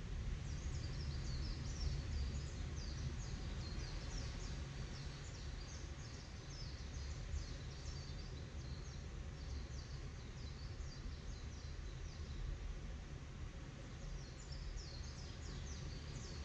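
Birds chirping in rapid, high, short calls that run in a long chattering series, pause briefly near the end and then start again, over a low steady rumble.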